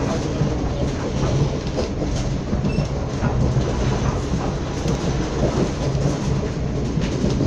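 Passenger train running along the line, heard on board: a steady, heavy rumble of wheels on rails with scattered clicks over the track.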